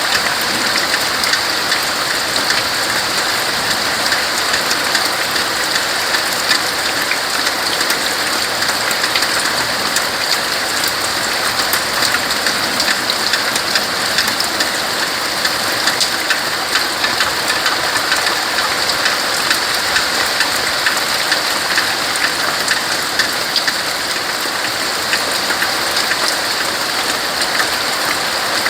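Steady rain falling on trees and leaves: a dense, even hiss with many fine drop ticks.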